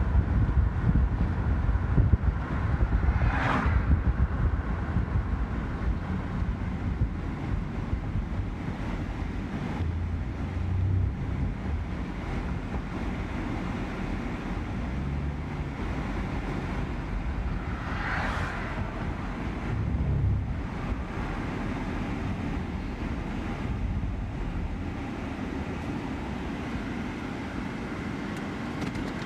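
Wind buffeting the microphone over a steady vehicle rumble, gusting hardest early on, with two brief swells of hiss, a few seconds in and again near the middle.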